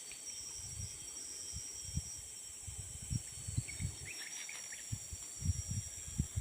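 Steady high-pitched insect chorus, with irregular low thumps and bumps that come more often in the second half.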